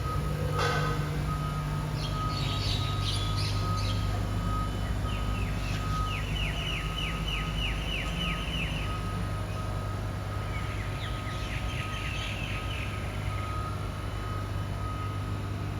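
BYD garbage truck running its rear compactor with a steady low hum, while a single-tone warning beep repeats at an even pace. Runs of quick high chirps, several a second, come and go over it three times.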